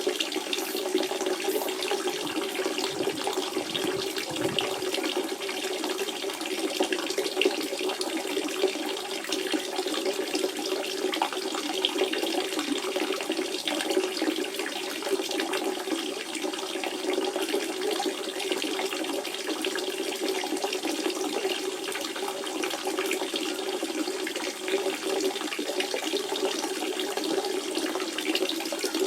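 Natural spring water running and trickling steadily, a continuous splashing flow with a strong low gurgling tone.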